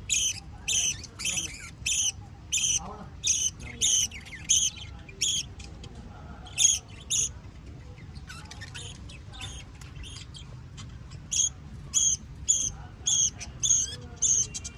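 Birds calling: a sharp, shrill note repeated about twice a second, breaking off for a few seconds in the middle before starting again.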